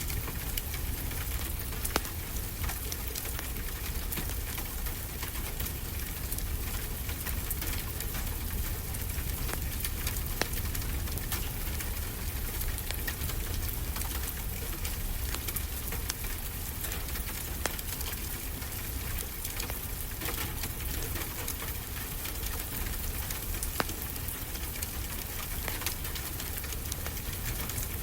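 Steady rain hissing with a wood fire crackling over it: scattered sharp pops and snaps above a constant rain wash and a low rumble.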